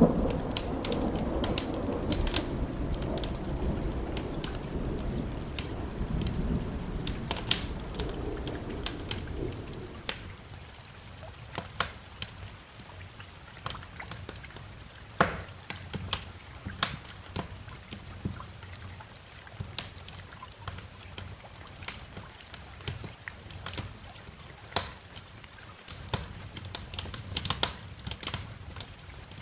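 A roll of thunder rumbling and dying away over the first ten seconds or so, over a wood fire crackling with sharp pops and snaps scattered throughout, and a soft hiss of rain underneath.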